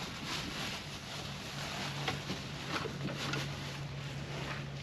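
Wind noise with faint rummaging clicks as a skillet is dug out of a backpack, and a steady low hum that sets in about a second and a half in.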